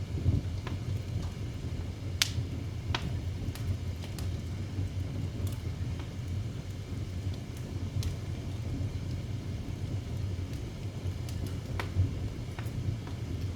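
Wood fire crackling in a fireplace: a steady low rumble with irregular sharp pops, the loudest about two seconds in.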